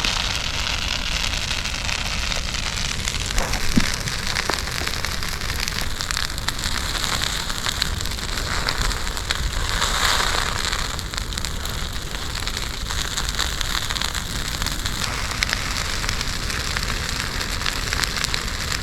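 Brush-pile bonfire burning hard: a steady rushing hiss of flames with a scatter of crackles and pops from burning twigs. The flames swell louder briefly about halfway through.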